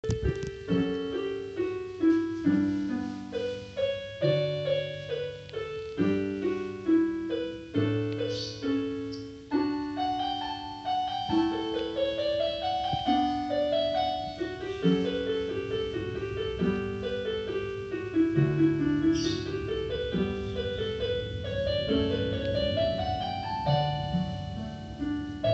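Piano music: a melody played over lower chords, with notes that strike and fade and several rising runs.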